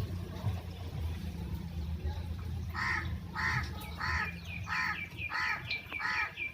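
A crow cawing over and over, about six harsh caws evenly spaced a little more than half a second apart, starting about halfway through, over a steady low rumble.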